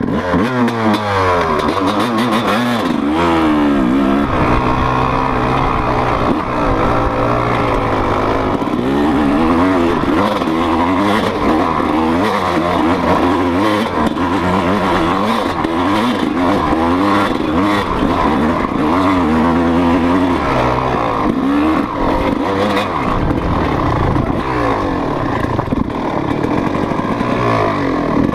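Motocross dirt bike engine ridden hard, its pitch rising and falling over and over as the throttle is opened and closed, with scattered short clatters.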